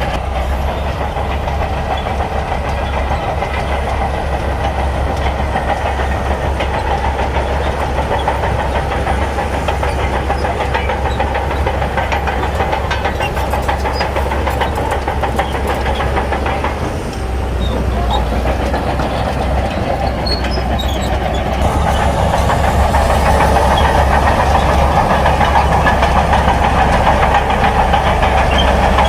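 Shantui crawler bulldozer's diesel engine running under load with a steady metallic clatter. The sound dips briefly a little past halfway, then runs louder near the end.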